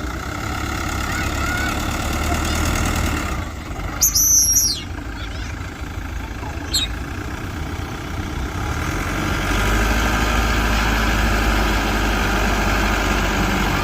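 Heavy diesel engine of a Mitsubishi BD2G bulldozer running steadily, then working harder and louder about two-thirds of the way through. A brief loud high-pitched squeal comes about four seconds in.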